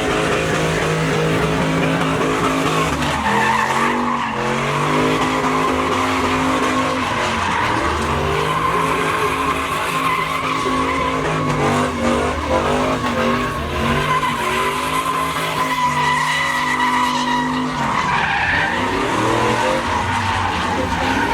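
Pickup truck doing a burnout: engine held at high revs with the rear tires squealing as they spin against the pavement, the revs dipping and climbing back several times.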